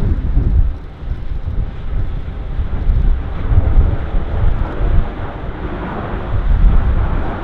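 Strong gusty wind buffeting the microphone: a loud low rumble that swells and drops with each gust.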